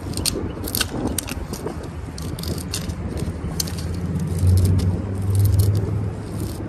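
Car engine humming low, swelling from about four and a half seconds in, with many sharp clicks and rattles over it.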